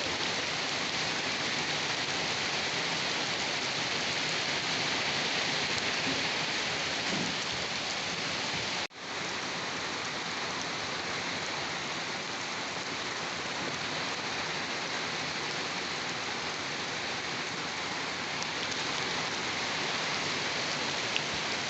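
Steady, heavy rain falling on a surface. It cuts out for an instant about nine seconds in and returns at once.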